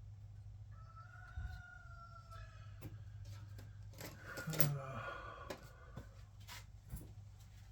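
Scattered sharp clicks from plastic zip ties being fastened around a subwoofer's tinsel leads, over a steady low hum. A drawn-out pitched cry sounds about a second in, and a louder one about four and a half seconds in.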